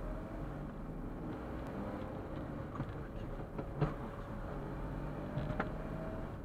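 Suzuki Super Carry kei truck driving, its steady engine and road noise heard from inside the cab, with a few short knocks and rattles, the loudest about four seconds in.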